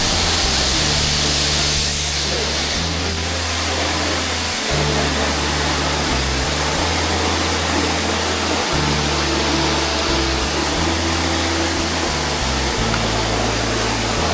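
Steady rushing roar of a waterfall's falling water, with low bass notes of background music changing every second or two underneath.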